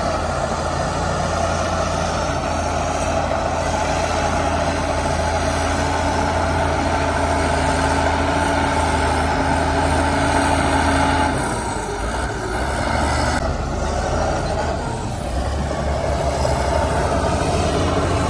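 Heavy diesel earthmoving machinery running steadily. The engine note drops about twelve seconds in and picks up again a few seconds later.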